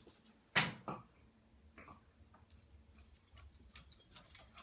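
A dog at play: a short, sharp sound about half a second in and a smaller one about a second in, then light jingling and clicks near the end.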